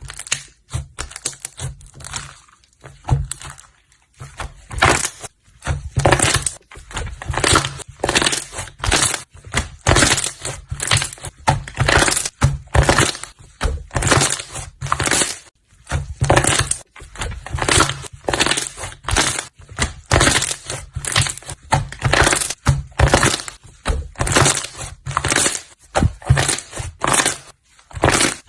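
Slime being squished and pressed, crackling and crunching in short repeated strokes, about one to two a second.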